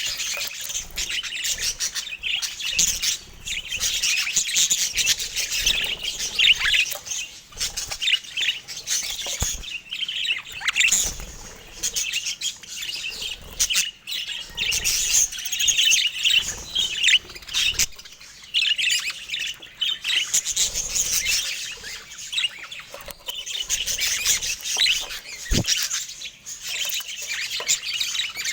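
Budgerigars chattering without a break, many quick high chirps overlapping.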